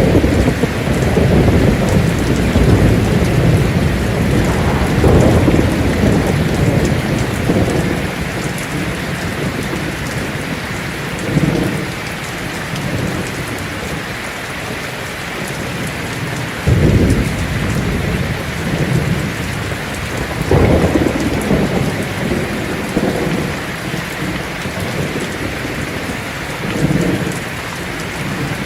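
Heavy rain drumming on a tin roof in a steady hiss, under thunder. A long low rumble fills the first several seconds, and sharper claps break in about four times after that.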